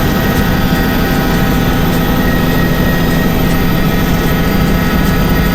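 Helicopter engine and rotor running: a loud, steady drone with a low hum.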